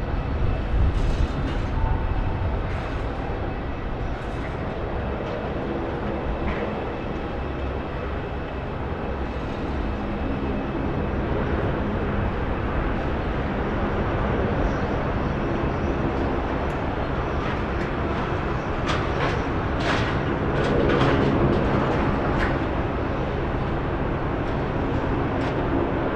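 Boeing 787-9 airliner landing: a steady jet-engine rumble with a faint low hum, swelling slightly twice.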